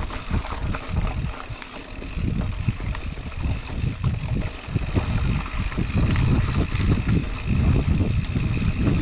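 Wind buffeting an action camera's microphone during a mountain-bike ride on a dirt trail: a heavy, gusting rumble with the light rattles and clicks of the bike over rough ground. The rumble eases briefly about a second and a half in.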